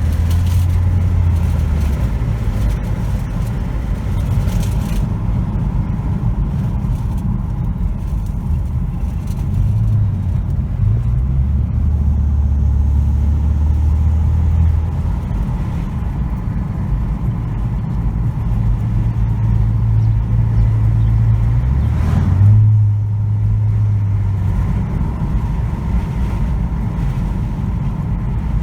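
Ford Escape's 1.5 L EcoBoost turbocharged inline-four, with an aftermarket free-flow intake and high-flow exhaust, heard while driving. A low, steady exhaust drone steps up and down in pitch several times, with a brief louder surge about 22 seconds in.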